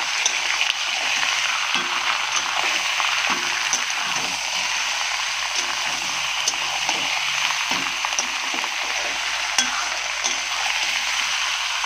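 Raw chicken pieces and sliced onions sizzling steadily in hot oil in a metal kadhai while being stirred with a metal spatula, which scrapes and clicks against the pan now and then.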